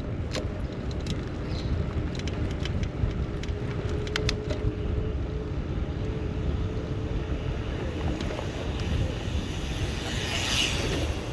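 City street noise heard from a moving bicycle: a steady low rumble of road traffic and wind on the microphone, with several sharp clicks in the first few seconds and a hissing swell near the end.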